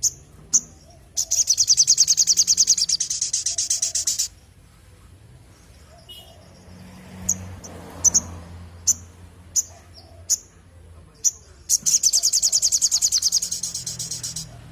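Sogok ontong (little spiderhunter) singing. It gives two long, fast, high-pitched trills of about three seconds each, with single sharp chip notes about a second apart between them.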